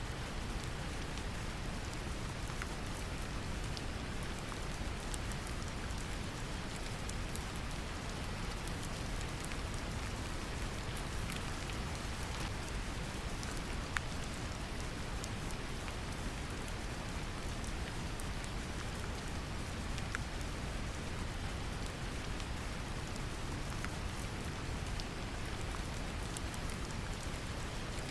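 Steady brown noise mixed with the patter of rain, with scattered drop ticks.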